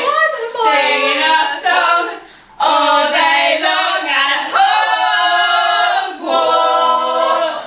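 A small group of young voices singing a cappella, holding long notes with a couple of short breaks for breath.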